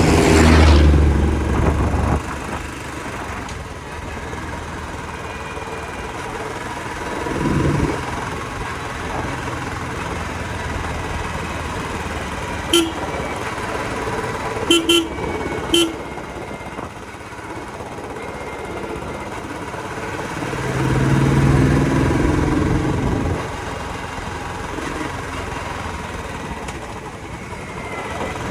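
Motorcycle riding through road traffic: steady engine and road noise, with vehicles rumbling past at the start, about a third of the way in and again about three quarters of the way in. A vehicle horn toots four short times around the middle.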